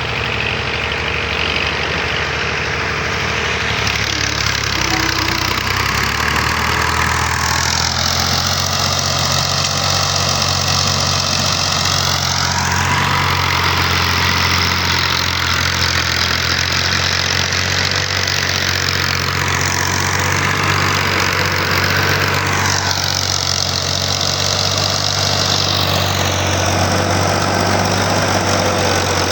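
Tractor engine running loud and steady at constant speed, with a hiss above it that sweeps up and down in pitch a few times.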